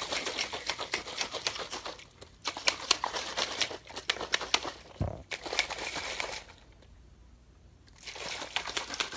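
Plastic shaker cup of water and G Fuel powder being shaken hard, the liquid sloshing and slapping inside in rapid strokes. It goes in several bouts with short breaks, pausing for a second or so before a last bout near the end.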